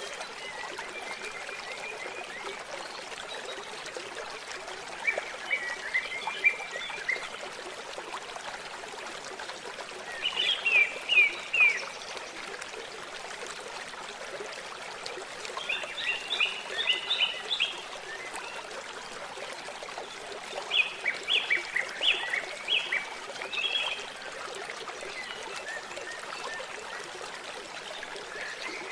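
Water trickling and flowing steadily, with a songbird singing short phrases of quick, repeated high chirps about every five seconds, five times.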